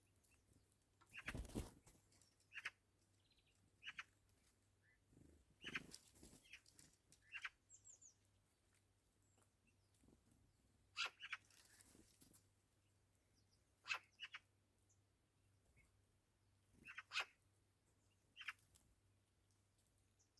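Faint short bird calls, single notes every second or two, with a few sharp knocks or taps among them.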